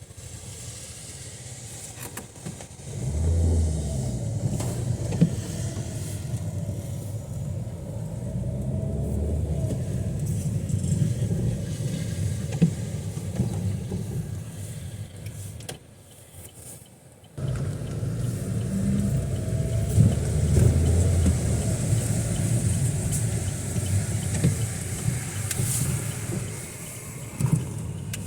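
A motor vehicle running with a steady low rumble. The rumble drops away briefly about sixteen seconds in, then comes back.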